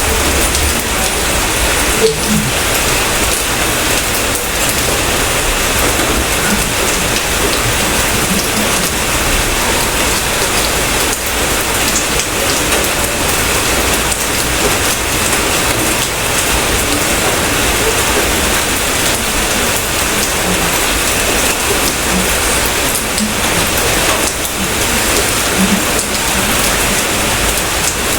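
Steady rain falling: an even, unbroken hiss of drops, with one sharp tap about two seconds in.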